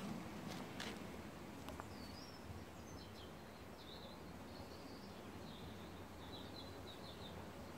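Faint steady outdoor background noise with a distant small bird chirping and twittering in short high phrases from about two seconds in. A few light clicks in the first two seconds.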